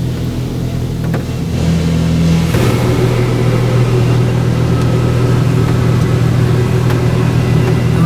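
Oasis Typhoon in-bay automatic car wash running its pre-soak cycle, heard from inside the car: a steady low machine hum with water spraying over the car, growing louder about two seconds in.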